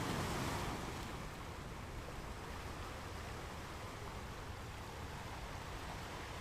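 Ocean surf: a wave washes in and breaks at the start, then a steady rushing hiss of water.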